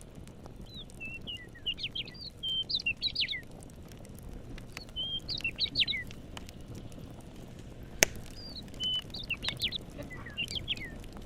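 A songbird singing bursts of quick, chirpy notes, three phrases in all, over campfire crackling with scattered faint clicks. A single sharp pop from the fire about eight seconds in is the loudest sound.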